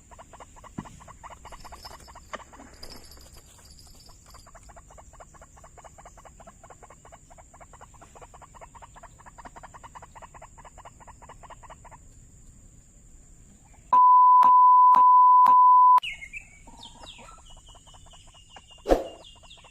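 White-breasted waterhen (ruak-ruak) calls: a fast run of pulsed calls that stops about twelve seconds in. About fourteen seconds in comes a loud steady beep lasting about two seconds, followed by short gliding calls.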